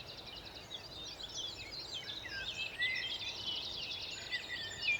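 Several songbirds singing at once in the dawn chorus: rapid trills and chirping, whistled notes overlapping one another.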